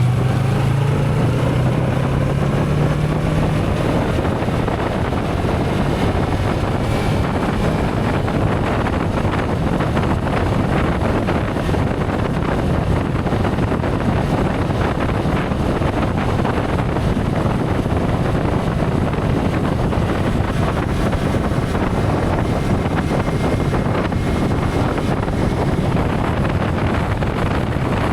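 Motorcycle on the move: the engine note rises as it accelerates over the first few seconds, then a steady rush of wind on the microphone covers most of the engine.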